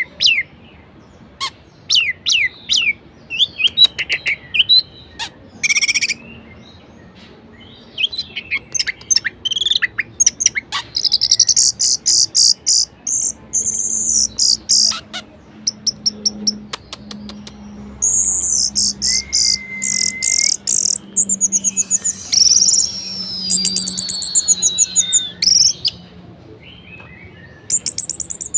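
Orange-headed thrush (anis merah) singing a long, varied song: quick chattering notes and short whistles, then rapid high trills, a held whistle about two-thirds of the way in, and a long falling whistle near the end.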